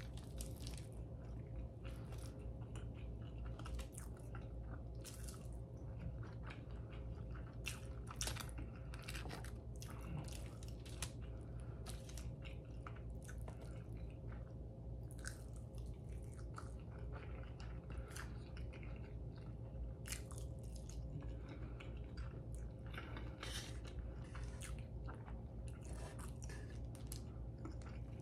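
Close-up mouth sounds of a person chewing and biting into breakfast food (scrambled eggs, bacon, sausage), with irregular short wet clicks, over a steady low hum.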